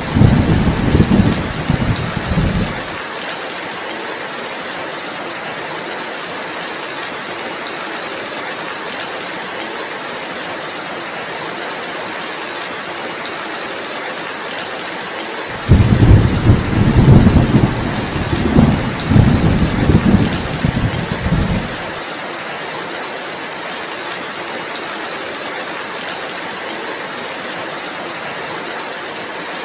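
Heavy, steady rain with two deep rolls of thunder. One dies away about three seconds in; the other rolls from about halfway through for some six seconds, then cuts off suddenly.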